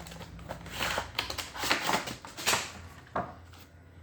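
Earphone packaging box being opened by hand: a quick, irregular series of scrapes, rustles and clicks that die away after about three seconds.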